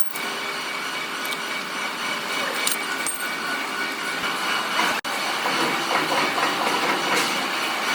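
Workshop machinery running steadily, a hissing whir with several held tones, broken by a brief drop-out about five seconds in.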